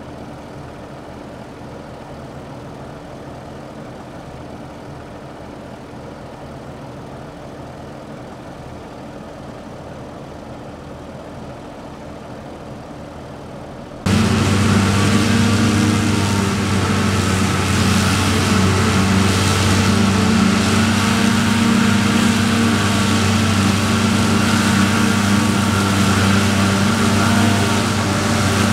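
Diesel engines of large farm machinery running steadily: a moderately loud engine hum, then an abrupt change about halfway through to a much louder, closer engine.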